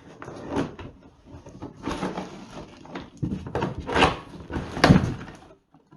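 Handling noise from a plastic bucket of fireworks being moved and opened: scraping with several knocks, the loudest about four and five seconds in, stopping shortly before the end.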